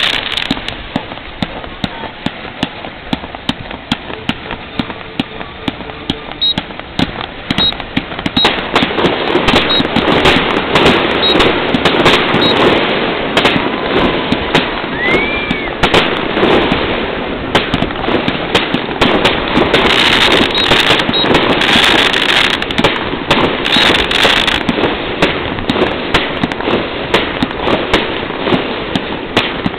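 Fireworks display: a rapid, unbroken string of bangs and cracks that grows louder and denser about eight seconds in, with a short whistle near the middle.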